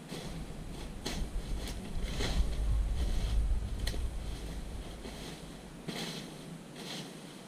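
Wind rumbling on the microphone, loudest about two to four seconds in, with scattered light clicks and rustles.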